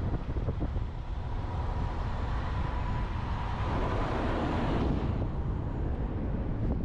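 Wind buffeting the microphone of a roof-mounted camera on a moving truck, over steady road rumble. A hiss swells over a few seconds and cuts off sharply about five seconds in.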